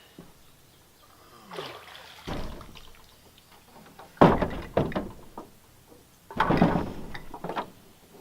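Knocks and thunks on a jon boat's hull with water sloshing, as the boat is paddled or pushed off; the sharpest knock comes about four seconds in, and a longer splash-like rush about six and a half seconds in.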